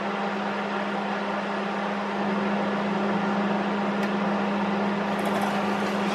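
A steady electrical hum with a hiss over it, slightly louder from about two seconds in.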